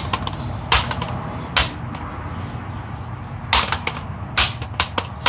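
A pipe striking a broken device: about half a dozen sharp knocks at uneven intervals, two of them close together near the end.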